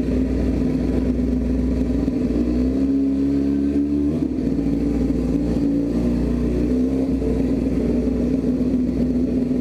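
Honda Shadow 600 V-twin motorcycle engine running at low speed, with a brief rise in revs about two to four seconds in and a change again around seven seconds.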